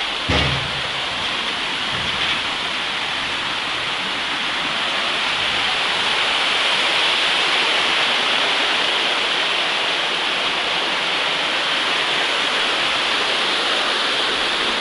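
Rushing water of a mountain river tumbling over rocks: a steady, loud hiss. A single dull thump about half a second in.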